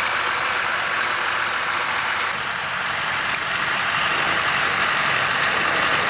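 Tractor engine running steadily under load in the field, its sound changing abruptly about two seconds in.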